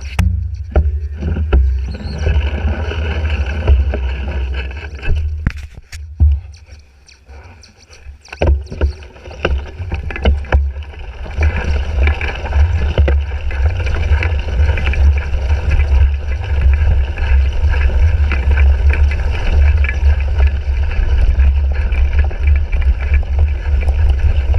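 Wind buffeting a bike-mounted GoPro Hero 3 at cyclocross racing speed, a heavy rumble with knocks and rattles from the bike over rough ground. The rumble drops away for a couple of seconds about six seconds in, then comes back steady.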